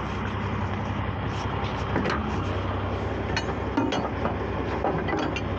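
Truck engine idling steadily, with a few light metal clinks about three and a half seconds in and again near the end.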